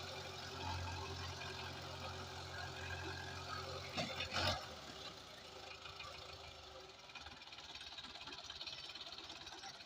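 Diesel tractor engine running with a low, steady note; about four seconds in there is a loud short clatter, after which the engine sound weakens and dies away by about seven seconds in.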